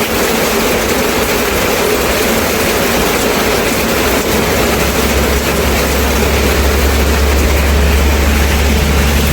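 Steady rain falling, an even hiss. About halfway through, a low, steady rumble comes in underneath it and keeps going.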